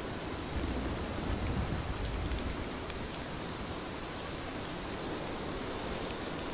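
Heavy rain falling steadily, with a low rumble swelling up for a couple of seconds about half a second in.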